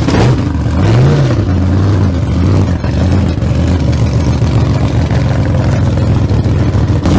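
An engine running loudly, revving up and back down once about a second in, then running steadily with a rough, even note.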